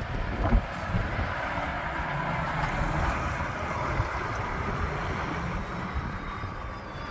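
Lorry engine running as a truck drives past, with wind buffeting the microphone in gusts.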